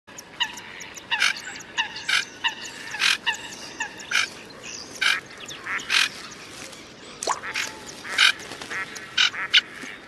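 Birds calling: a run of short, harsh notes, one or two a second, some with a clear pitched tone.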